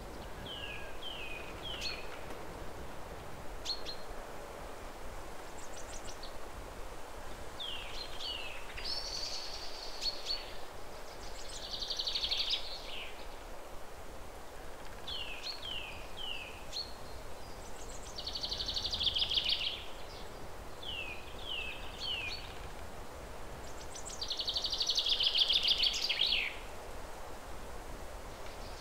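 A bird singing a repeated phrase: two or three quick falling chirps followed by a louder buzzy trill, coming back every six or seven seconds over a steady low hiss.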